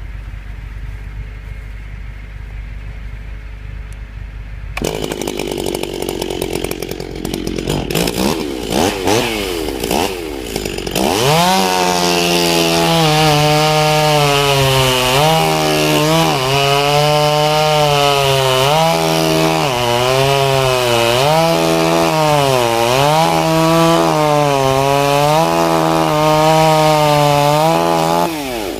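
Stihl chainsaw cutting through the base of a pine trunk. After a quieter stretch with scattered knocks, the saw revs up about eleven seconds in and runs at full throttle, its pitch dipping and recovering every second or so as the chain bites into the wood.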